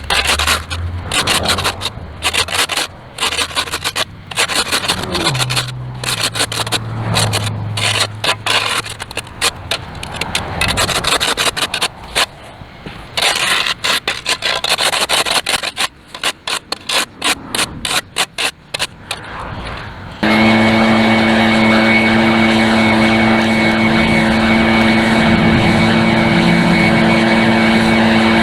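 Repeated scraping strokes of a hand tool clearing dirt and grass off a concrete sidewalk, irregular and uneven. About twenty seconds in it cuts off suddenly, and a small engine comes in running steadily at high speed with a constant whine.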